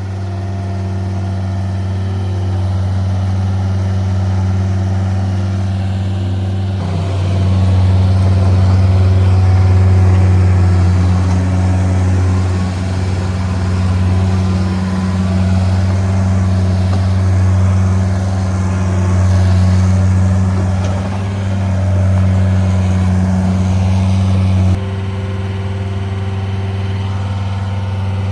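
A heavy vehicle engine running steadily while lifting and moving a truck frame. It grows louder about seven seconds in as it works harder, and drops back abruptly near the end.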